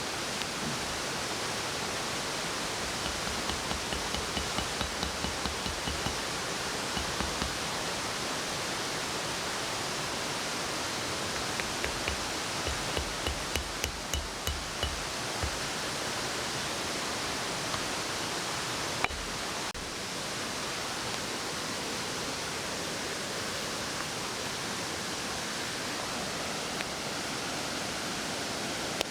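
Steady rushing background noise, with two runs of soft low thuds at about two a second and a single sharp click about two-thirds of the way through.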